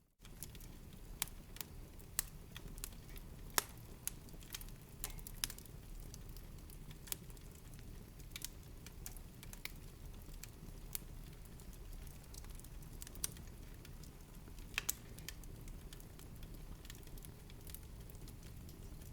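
Fireplace fire crackling: irregular sharp pops and snaps over a steady low rumble of the flames, with a brief dropout at the very start.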